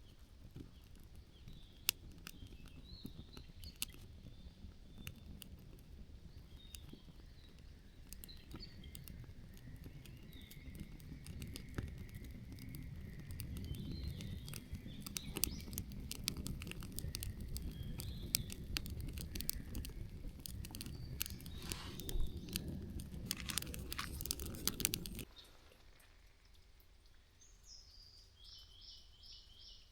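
Birds chirping over a low outdoor rumble, with many small sharp clicks and crackles. The rumble cuts off abruptly near the end, leaving quieter ambience and a short, repeated high bird call.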